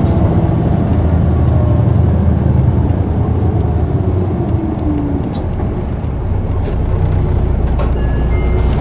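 Inside an Isuzu Erga city bus (PKG-KV234L2): the diesel engine and drivetrain run loudly, with a whine that falls in pitch as the bus slows. There are a few light clicks near the end.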